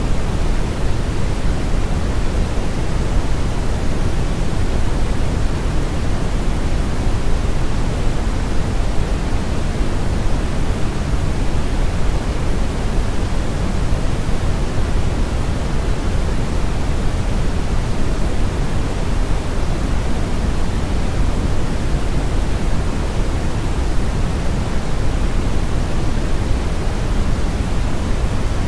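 Steady brown noise: a constant, even hiss-rumble, strongest in the bass and dropping off toward the treble, with no events or changes.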